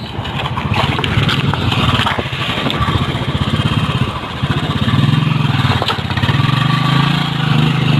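Motorcycle engine running, its pitch rising and falling as the throttle changes.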